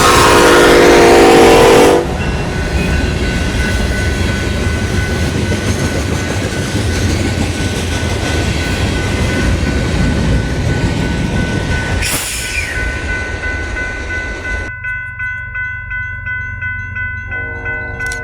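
Diesel locomotive horn sounding a loud multi-note chord that stops about two seconds in, followed by the rumble and wheel noise of a passing freight train. A steady ringing tone runs under it, and about fifteen seconds in the train noise cuts off abruptly, leaving rhythmic bell-like ringing.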